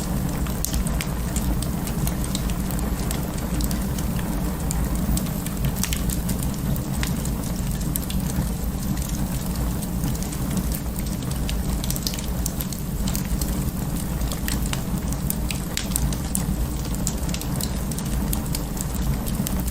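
Wood fire burning in an open fireplace: a steady low rumble of flames with frequent small, sharp crackles and pops.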